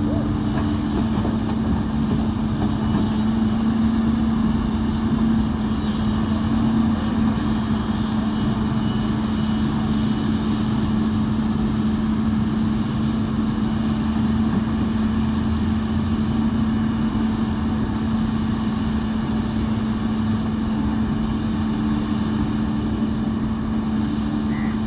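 Komatsu backhoe loader's diesel engine running steadily at a constant pitch.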